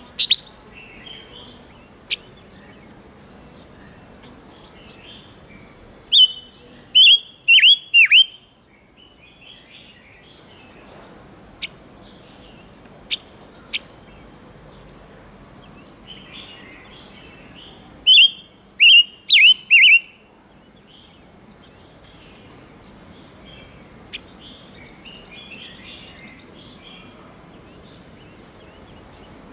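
A ngũ sắc cage bird calling: twice, about six seconds in and again near twenty seconds, a loud phrase of four or five sharp, quickly falling notes, with single chirps and softer twittering in between.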